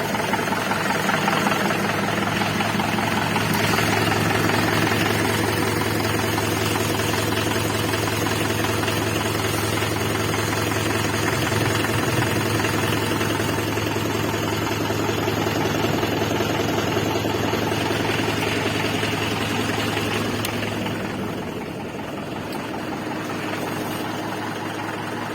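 Mahindra 575 DI tractor's four-cylinder diesel engine running steadily at idle, with a diesel knock; it gets quieter about 21 seconds in.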